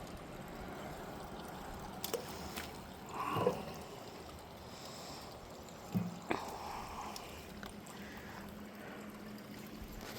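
Creek water trickling and running steadily, with a few brief knocks about two, three and a half and six seconds in.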